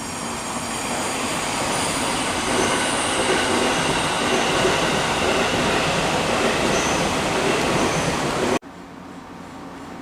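A train running past on the rails, growing louder over the first couple of seconds and then holding steady, with faint high squealing tones above the running noise. It cuts off abruptly about eight and a half seconds in, leaving a quieter steady hum.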